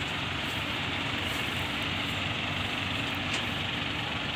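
Steady noise of a thermic fluid heater's furnace running, a constant low hum under an even rushing hiss with no change through the moment.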